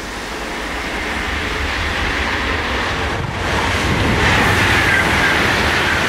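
High-speed train running past at speed: a broad rush of wheel and air noise that swells steadily and reaches full loudness about three and a half seconds in. In the second half a high whine rides over it, sinking slightly in pitch.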